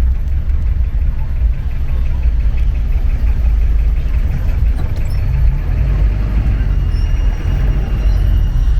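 Steady low rumble of a motor vehicle's engine and road noise, without a break.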